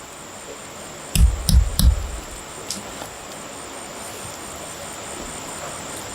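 Three quick, heavy thumps about a second in, over a steady background hiss with a thin high whine.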